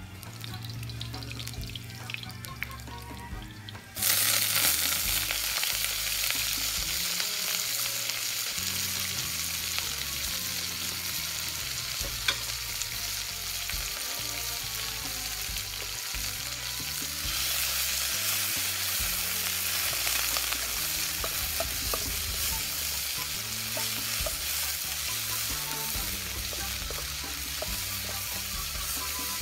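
Sliced garlic sizzling quietly in hot oil in a wok. About four seconds in, meat pieces go into the oil and a sudden loud sizzle starts, which carries on steadily while they are stirred with a wooden spatula.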